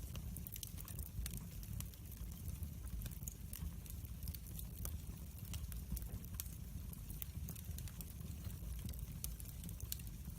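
Wood fire burning in a fireplace, crackling: frequent irregular sharp pops and snaps over a low, steady rumble of the flames.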